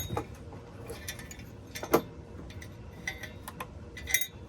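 Light metallic clinks and rattles of a steel beaver trap being handled, with a louder knock about two seconds in and quick clusters of clinks near the end.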